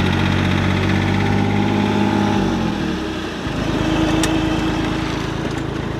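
John Deere 855 compact tractor's three-cylinder diesel engine running steadily. Its note changes about halfway through, then settles into a new steady sound.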